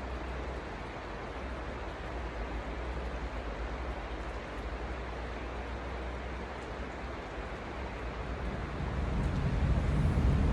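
Steady rush of fast-flowing stream water, with a low rumble that grows louder over the last two seconds.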